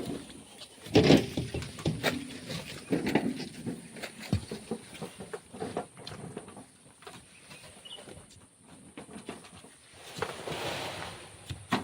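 Manual shovelling of sand: irregular scrapes and thuds of a shovel, with a longer rush of tossed sand near the end.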